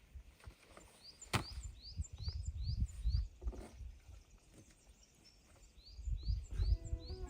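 A small bird repeating short rising chirps, about two a second, over low rumbling noise that swells twice, with one sharp click about a second in.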